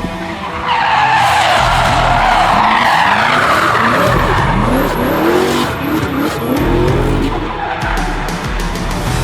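Tyres squealing as a 1UZ V8-swapped BMW E46 drifts, starting about a second in, with the V8 revving up in repeated rising sweeps through the middle. Rock music plays underneath.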